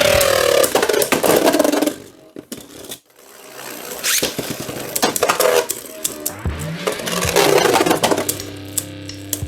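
Beyblade Burst spinning tops clattering and clashing in a battle stadium, a rapid run of sharp clicks and knocks that drops away briefly about two to three seconds in, with rock music playing over it.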